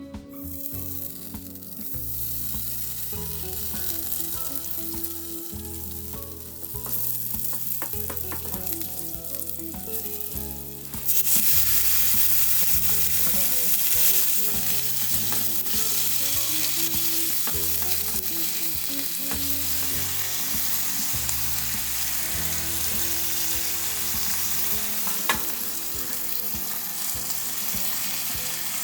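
Food frying in a hot pan, with a steady sizzle that jumps much louder about eleven seconds in.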